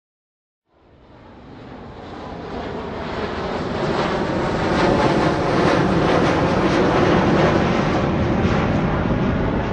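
Aircraft taking off and passing over a ground observer: a roar that starts from silence under a second in, builds steadily to its loudest in the middle, and begins to fade near the end.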